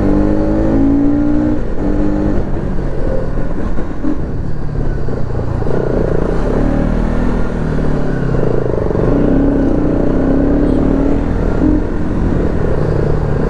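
Stock Bajaj Pulsar NS200 single-cylinder engine running under way, its pitch rising and falling as the throttle is opened and closed, over a steady low rumble of riding.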